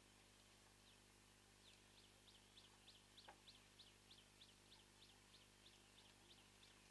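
A bird calling faintly in a quick series of short, high, falling notes, about three a second, starting about two seconds in.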